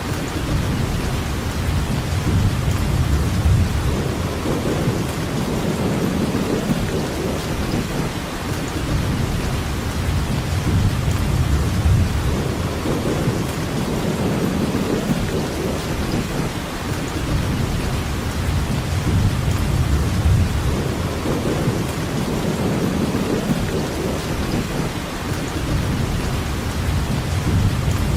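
Steady rainfall, an even hiss with a low rumble underneath that swells and fades every few seconds.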